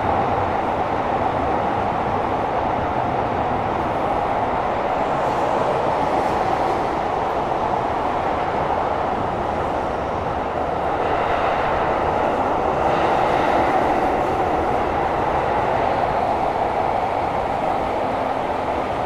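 Tokyo Metro 17000 series subway train running between stations, heard from inside the carriage. There is a steady rumble and roar of wheels on rail, with a faint higher whine about eleven to fourteen seconds in.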